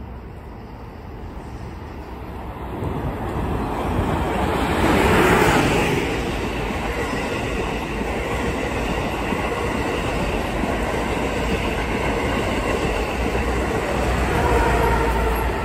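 Amtrak Acela Express trainset passing through a station. The noise builds to its loudest about five seconds in as the leading power car goes by, then holds as a steady rush and rumble of wheels while the coaches pass. It swells again near the end as the rear power car passes.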